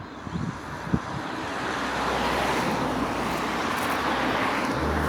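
A road vehicle passing, its tyre and engine noise swelling from about a second in and staying loud near the end.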